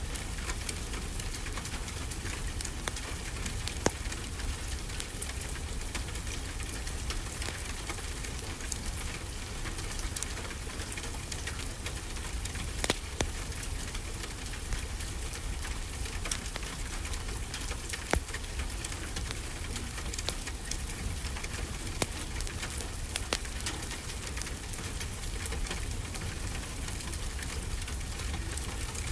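Steady rainfall hiss with a low rumble underneath, dotted with scattered sharp clicks and a few louder pops from a crackling wood fire.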